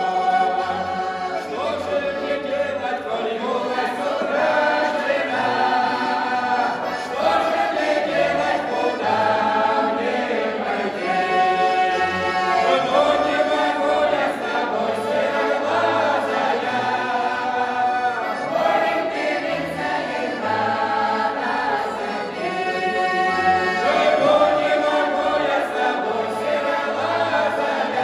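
Folk ensemble singing a Russian folk song in chorus, several voices together.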